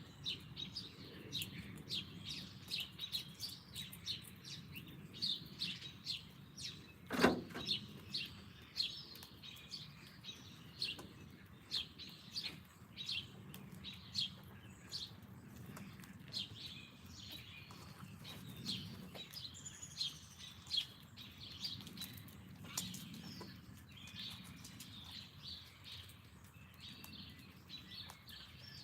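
Small songbirds chirping busily, many short rapid calls overlapping, with one sharp knock about seven seconds in.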